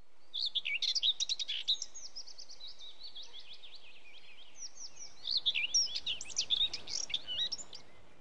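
Small birds chirping and twittering in quick high calls, in two lively spells with a lull between them, over a faint steady hiss.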